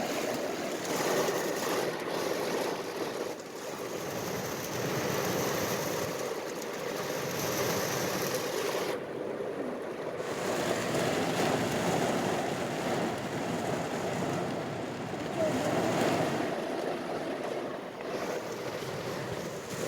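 Rain falling, a dense steady hiss, with a short dip in its higher hiss about nine seconds in.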